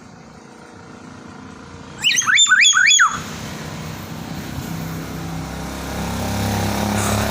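A bird gives a loud, rapid run of rising whistled notes lasting about a second, about two seconds in. After it, a motorcycle engine drone builds up and grows louder near the end.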